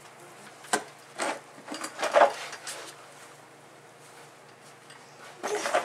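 A snow shovel digging into and scraping through deep snow: several short scrapes and thuds, the loudest about two seconds in and another near the end.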